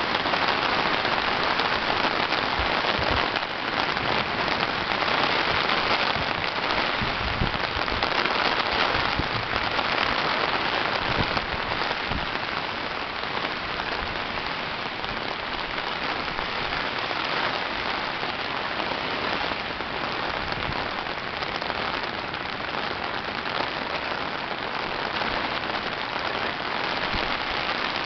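Heavy rain pouring down, a dense, steady hiss of falling water.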